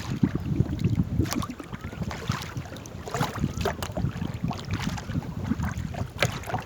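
Water splashing and paddles dipping around a small paddled boat, with scattered sharp splashes and clicks, and wind rumbling on the microphone.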